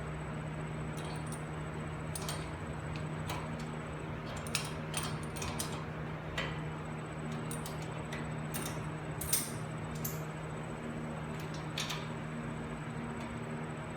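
Light metallic clinks and clicks of hand tools and metal parts being handled, scattered irregularly, over a steady low hum.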